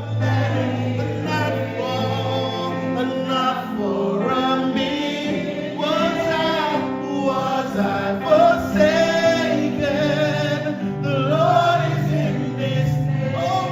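Live gospel worship music: a group of voices singing together over instrumental accompaniment with sustained bass notes.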